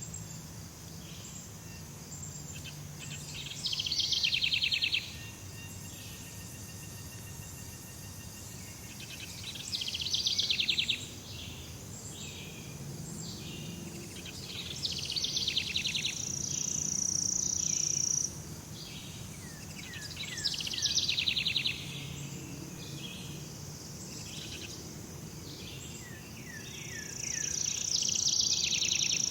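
Jungle ambience of insects and birds. A rapid pulsed trill comes back about every five to six seconds and is the loudest sound. Twice a steady high whine is held for a couple of seconds, and short falling chirps come in near the end.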